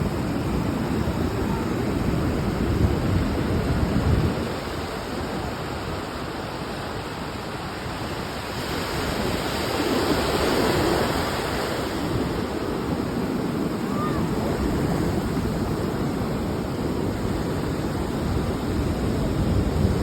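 Sea waves washing onto a beach, with wind buffeting the microphone. The surf swells louder in the first four seconds and again around ten seconds in.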